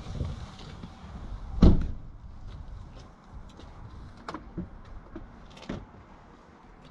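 One heavy thump about one and a half seconds in, then a few lighter clicks and knocks over a low background.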